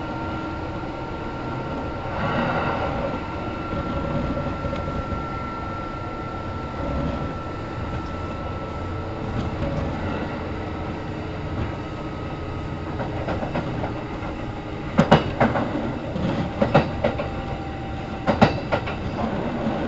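Kintetsu 1810 series commuter train running, heard from inside the passenger car: a steady rumble with a faint whine that fades out about halfway through. From about fifteen seconds in there are clusters of sharp wheel clicks, the clickety-clack of the wheels over rail joints.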